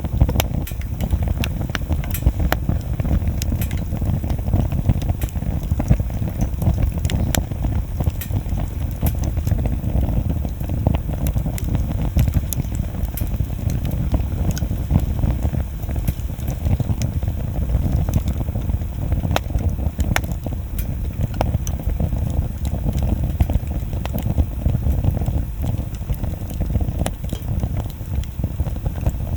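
Wood bonfire burning, with a steady low rumble under frequent irregular crackles and sharp pops from the burning wood.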